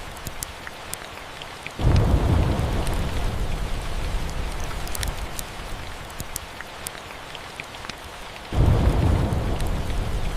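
Steady rain falling, with two deep thunder rumbles that start suddenly, about two seconds in and again near the end, each rolling on and fading slowly.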